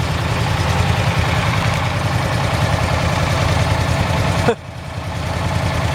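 Steady engine and road noise of a running vehicle, with a brief dip about four and a half seconds in.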